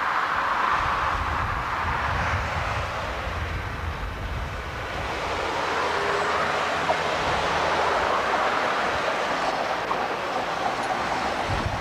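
Electric Docklands Light Railway train running past on the rails, a steady noise of the train in motion.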